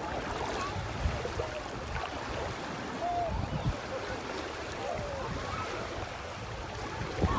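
Shallow sea water lapping and splashing, with a low wind rumble on the microphone and faint distant voices.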